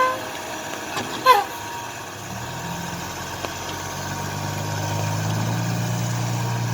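Vehicle engine running steadily with a low hum that sets in about two seconds in and grows gradually louder, labouring on slippery wet ground. A brief high sound is heard about a second in.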